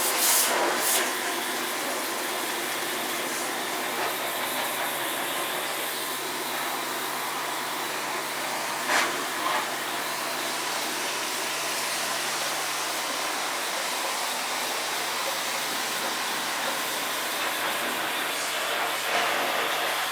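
High-pressure water jet spraying steadily through a split air conditioner, washing the dust out of it, with a steady low hum underneath. There are a couple of brief knocks, about nine seconds in and near the end.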